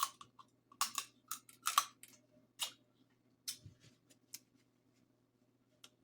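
Close-up eating sounds from a seafood boil: a run of sharp, wet crackles and clicks, thick for about three seconds and then thinning to a few, over a faint steady hum.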